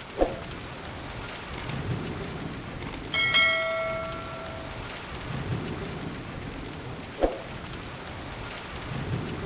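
Heavy rain falling steadily, with low thunder rumbling underneath. About three seconds in there is a single bell-like ringing strike that fades over a second or so, and two short sharp plinks stand out, one at the start and one near the end.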